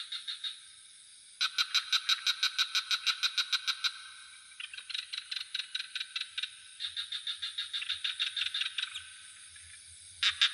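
Frogs calling in fast pulsed trills of about nine pulses a second, in bouts of two or three seconds that follow one another, over a steady high insect drone.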